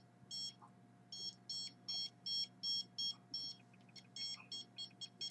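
Handheld radio-frequency detector's alarm beeping, short high electronic beeps about two to three a second with uneven spacing and a couple of brief gaps, as it registers a radio signal.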